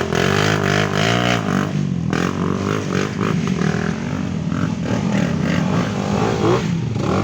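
Off-road trail motorcycle engines revving hard in repeated surges, the pitch climbing and dropping, as the bikes fight through deep mud.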